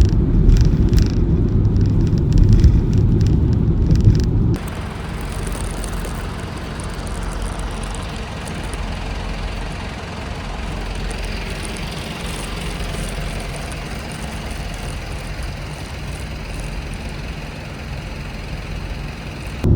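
Road noise from a car driving: a steady low rumble that cuts abruptly, about four and a half seconds in, to a quieter, hissier wash of tyre and traffic noise.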